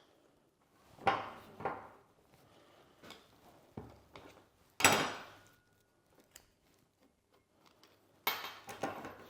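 Metal hand tools clinking and knocking together as they are rummaged through: a handful of separate clanks, the loudest about five seconds in with a brief ring, then a longer scraping rattle near the end.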